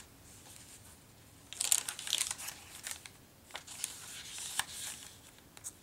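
Paper and card rustling and crinkling as a handmade junk journal's pages, tags and ephemera are handled and turned. It starts about a second and a half in and comes in several short bursts with a few light taps.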